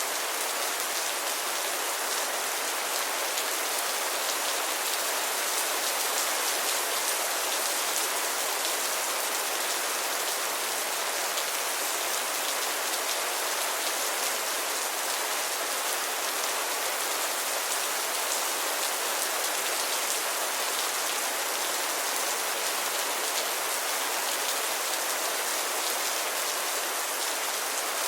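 Steady rainfall, an even hiss of many drops falling on a surface, with fine drop patter and no thunder.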